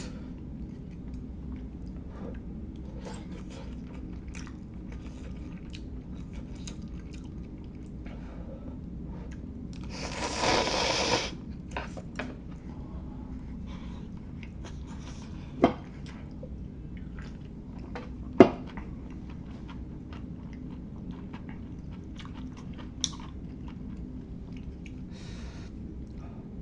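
Close-miked chewing and eating mouth sounds from someone eating instant hotpot, with many small wet clicks. About ten seconds in there is a loud rushing burst lasting about a second and a half, and around sixteen and eighteen seconds two sharp knocks.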